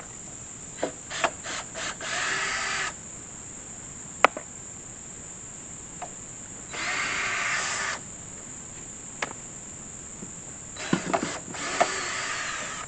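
Steady high-pitched insect chirring, typical of crickets, with scattered clicks and knocks of handled gear and three noisy bursts of about a second each.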